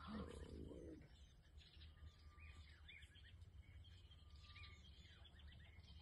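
Faint wild birds calling: repeated short arched chirps and a short level whistle about every two seconds, over a low steady rumble. A brief louder sound comes right at the start.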